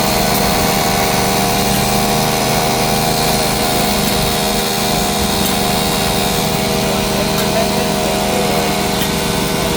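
A motor-driven shop machine running steadily, a constant hum with several steady tones over a noisy whir.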